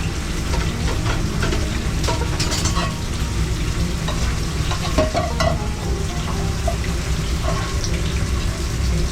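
Food frying and sizzling in a pan, with short clicks and scrapes of a utensil stirring it, over a steady low rumble.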